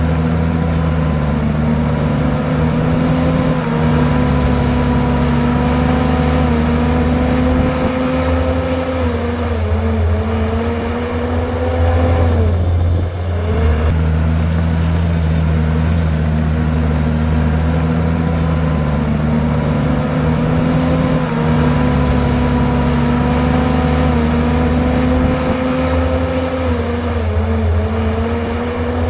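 Komatsu bulldozer's diesel engine running under load while pushing rock and soil. The engine pitch sags as it works about ten seconds in, dips sharply and recovers a moment later, then sags again near the end.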